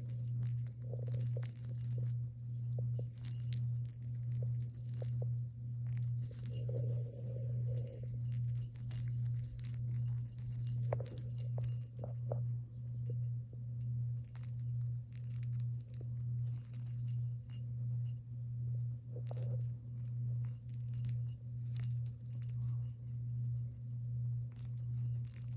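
Small bell inside a pet bird's toy ball jingling and rattling in irregular spells as the ball is moved, over background music with a steady pulsing low beat.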